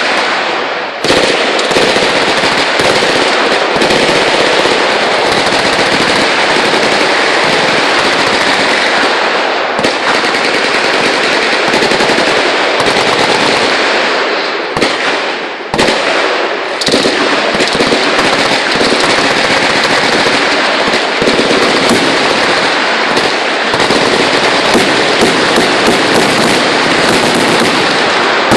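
Sustained automatic machine-gun fire, nearly continuous and dense enough to be several guns on a firing line at once, broken by brief lulls about a second in, near ten seconds and about halfway through.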